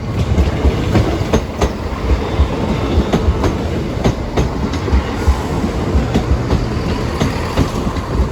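A train passing close by, a loud steady rumble with its wheels clicking sharply over the rail joints several times a second.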